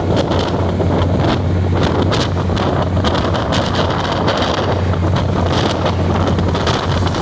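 Wind buffeting the microphone on a moving train, over a steady low rumble and many irregular short clicks and rattles.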